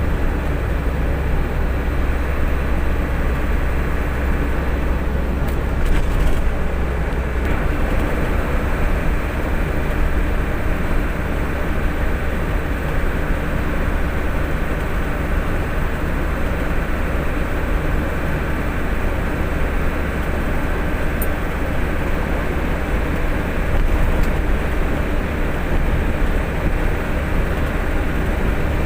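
A truck's engine running with a steady low drone, unchanging throughout.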